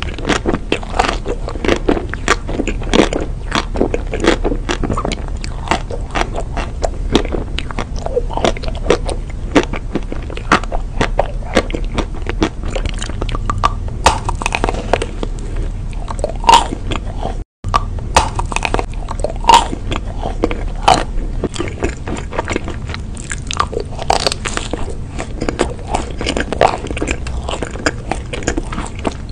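Close-miked mouth sounds of a woman biting and chewing chocolate-coated ice cream desserts: a steady run of many small clicks and crunches, with a split-second break near the middle.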